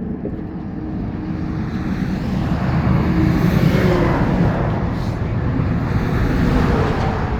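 Road traffic passing close by on a highway bridge: a vehicle's tyre and engine noise swells to its loudest about three to four seconds in, then slowly fades.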